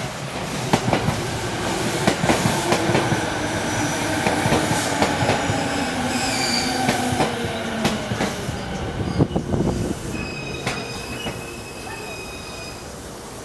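E217 series electric train moving through the station, with a motor whine that falls in pitch over several seconds and wheels knocking over rail joints. High wheel squeal sounds in the later seconds.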